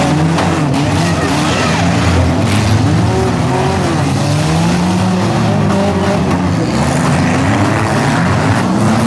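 Several compact-car engines in a demolition derby revving at once, their pitches rising and falling over each other as the cars drive and ram.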